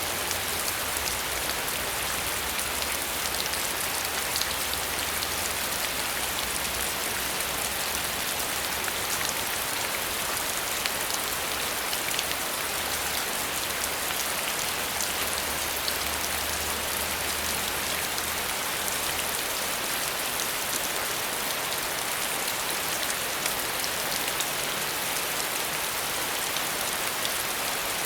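Steady rain falling and pattering on surfaces, with a faint low rumble underneath that fades out about two-thirds of the way through.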